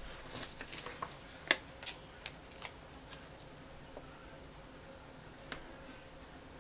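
A handful of light clicks and taps with a little soft paper rustling: planner stickers and stationery being handled on a desk. The clicks come mostly in the first half, one about every half second, with one more later on.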